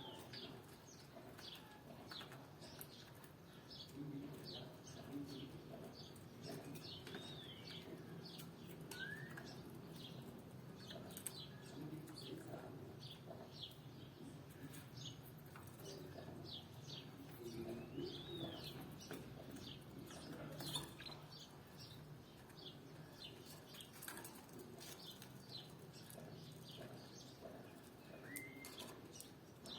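Canaries giving many short, high chirps several times a second, with a few rising whistled notes, over a faint low steady hum.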